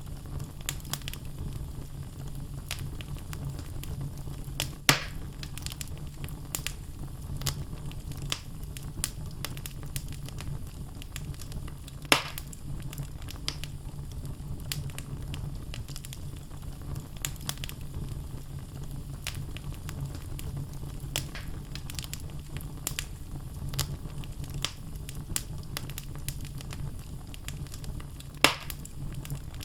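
Wood logs burning in a fireplace, crackling with frequent small snaps over a steady low rumble. Three louder pops stand out, at about five seconds, twelve seconds and near the end.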